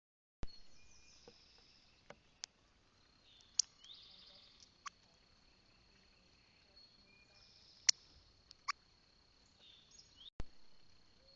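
Small birds at a feeder chirping in short high calls over a steady thin insect-like whine. Several sharp taps and clicks are scattered through, the loudest about a third of the way in and again a little past halfway.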